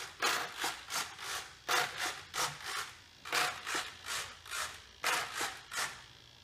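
Servos in an RC DHC-2 Beaver model whirring in short, quick strokes as its control surfaces are waggled back and forth from the remote. The strokes stop about six seconds in.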